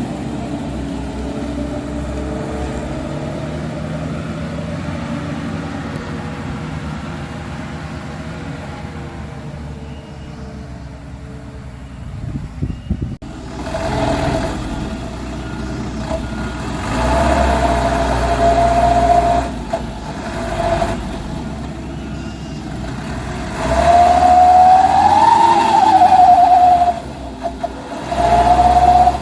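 Dump truck engine running steadily, then revving up in several surges in the second half, with a whining tone that rises and falls about 25 seconds in.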